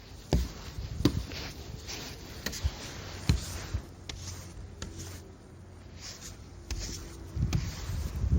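Clearing snow: scattered knocks and scraping with a low rumble near the end.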